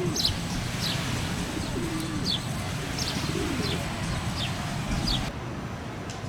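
Pigeons cooing, three low wavering coos, while a small bird gives short high chirps over and over until about five seconds in, over a steady urban background hum.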